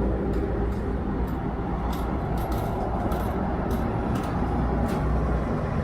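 Steady low rumble of a stopped vehicle's engine idling, heard from inside the cabin, with scattered light sharp ticks.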